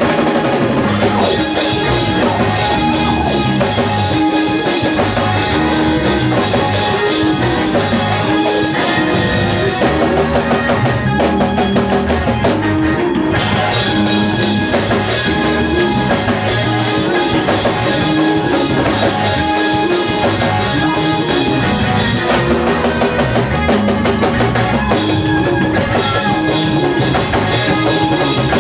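Band music with a steady drum-kit beat, a repeating bass line and guitar, typical of a church praise break.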